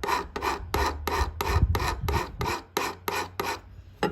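Hand file rasping quickly back and forth on the blade of steel cuticle nippers, about three to four short strokes a second, as the blade is sharpened. The strokes stop shortly before the end, followed by a sharp click.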